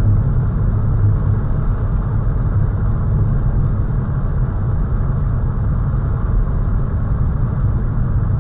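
A car driving: steady engine and road rumble, with no impact.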